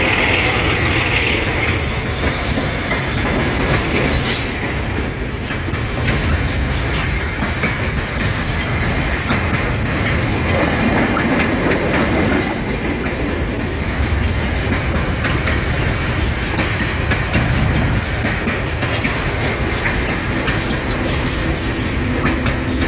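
Freight train of container wagons rolling past, a steady rumble with many wheel clicks over the rail joints. Brief high wheel squeals come now and then, the strongest at the very start.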